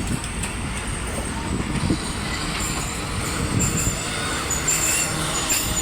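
Train running with a steady rumble, with a few thin high squeals near the end.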